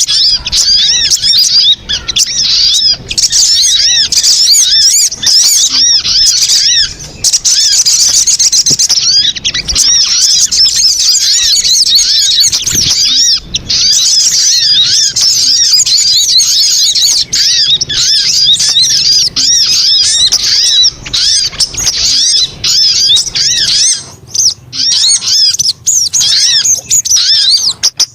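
Sogon bird song played as a lure call: a loud, unbroken chatter of fast, high arching notes.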